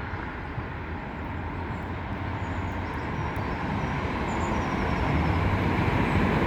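NI Railways Class 3000 diesel multiple unit approaching along the track, its rumble growing steadily louder.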